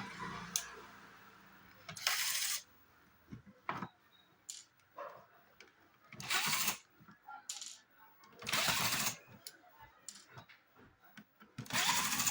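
Hand tools working on a home theatre unit while it is dismantled: four short rasping bursts, each about half a second long, spread a few seconds apart, with small clicks and knocks between them.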